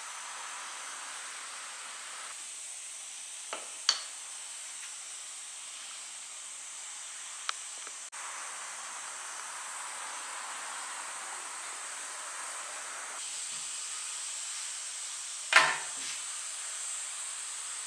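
A steady hiss with a few sharp clicks and knocks, the loudest about three-quarters of the way through.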